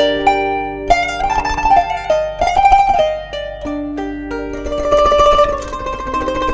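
Kanun, the Turkish plucked zither, playing a melody of ringing plucked notes, with passages of rapid repeated plucks on single notes.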